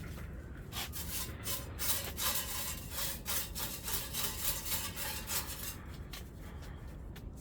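Repeated scraping strokes against the inside of a wood-burning stove as it is cleaned out, irregular at about two to three strokes a second and strongest through the middle seconds.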